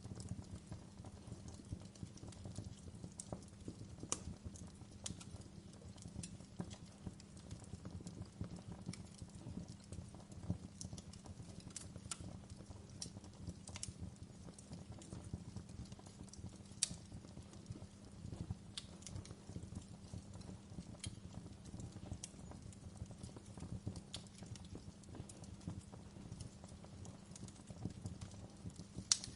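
Wood fire crackling, with irregular sharp pops and snaps over a steady low rumble of flames; a few pops stand out louder, one about halfway through and one near the end.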